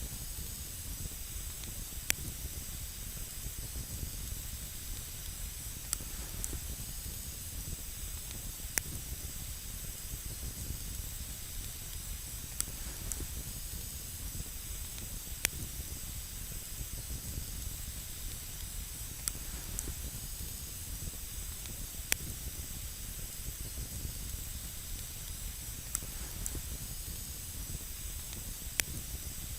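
Wood campfire burning with a steady hiss and a low rumble, and single sharp crackles popping every few seconds.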